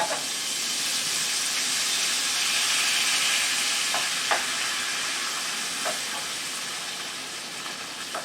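Tomatoes, garlic and spinach sizzling in a hot frying pan as they are stirred. The sizzle swells a few seconds in, then eases off, with a few light clicks of the utensil against the pan.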